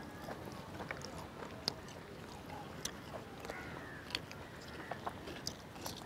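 Quiet eating sounds: someone chewing and biting into grilled turkey meat, with scattered small clicks and crackles.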